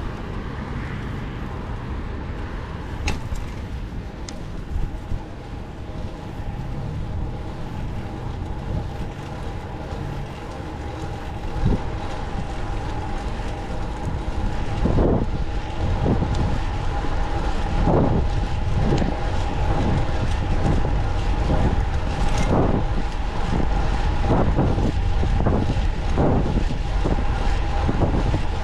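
Wind on the microphone and road rumble from a fixed-gear bicycle being ridden through traffic. About halfway in the sound grows louder, with a steady hum and a run of irregular knocks.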